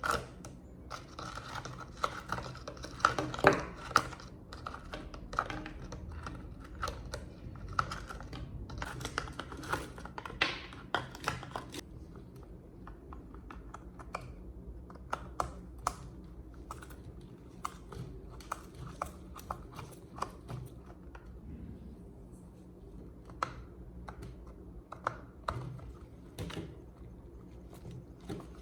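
Workshop hand-work on metal parts: irregular sharp clicks, taps and scraping. The scraping and clicking are busiest for the first dozen seconds, then thin out to scattered clicks over a low hum.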